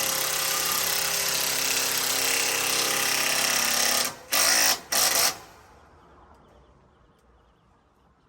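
Power drill running steadily for about four seconds, then two short bursts, then stopping.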